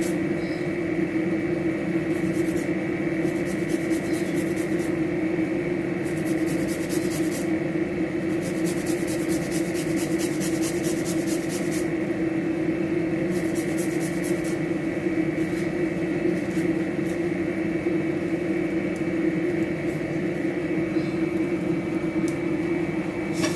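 Garlic and ginger being grated, in runs of quick scraping strokes with short pauses between, over a steady hum.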